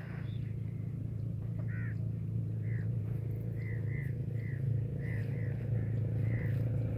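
A bird calling, a string of about ten short notes at roughly two a second, starting about two seconds in, over a steady low hum.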